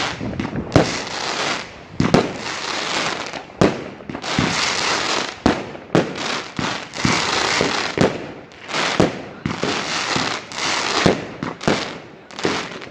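Fireworks going off in quick succession: sharp bangs at irregular intervals, about one a second, over continuous crackling.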